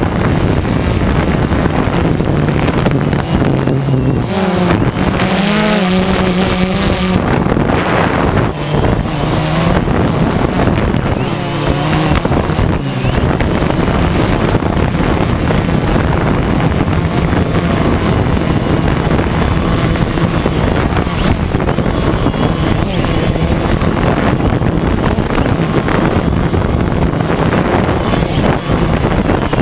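DJI Phantom 2 quadcopter's motors and propellers buzzing in flight, the pitch wavering as it manoeuvres between about four and seven seconds in and again around twelve seconds, with wind noise on the microphone throughout.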